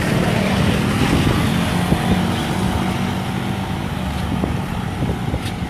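Vehicle engine running steadily, a low drone.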